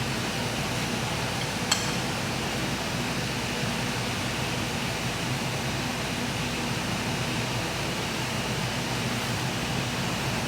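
Steady fan-like hum and hiss of background machinery, with a single sharp click about two seconds in.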